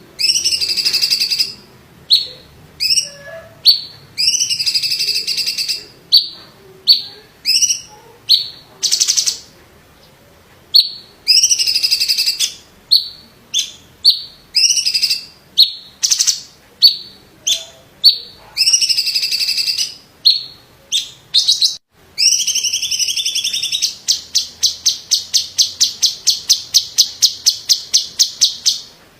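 A cucak ijo (green leafbird) of the cungkok type singing loud, varied whistled phrases separated by short pauses. Near the end it breaks into a long run of rapid, evenly repeated notes, about five a second, lasting around five seconds, like the 'mesin jahit' (sewing-machine) phrase prized in this bird's song.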